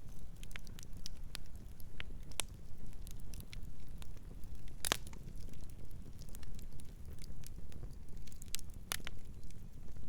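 Campfire burning with irregular crackles and pops over a low rumble; the two loudest pops come about halfway through and near the end.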